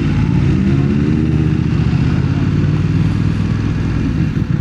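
BMW motorcycle engine running while riding, a steady low note whose pitch rises and falls slightly.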